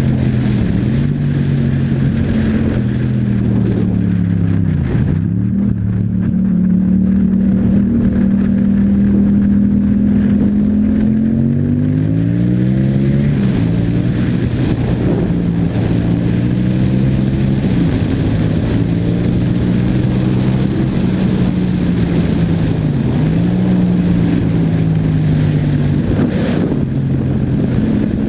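Yamaha MT-07's 689 cc parallel-twin engine through an Akrapovic exhaust while riding: the engine note holds steady, drops sharply a few times as the revs fall, and climbs steadily once under acceleration about halfway through.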